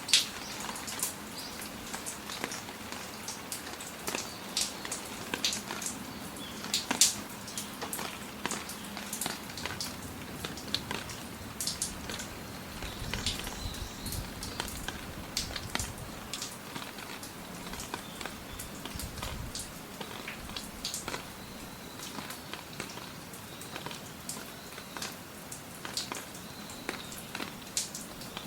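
Rain falling: a steady hiss with many separate drops landing close by as sharp, irregular ticks.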